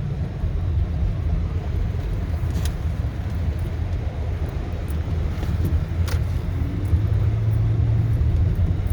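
Car road noise heard from inside the cabin while driving onto a highway: a steady low rumble of engine and tyres, with a few faint clicks and a steadier low engine hum coming in near the end.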